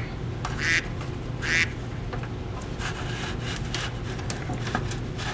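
Duck quacks: two louder quacks in the first two seconds, then shorter, fainter ones, over a steady low hum.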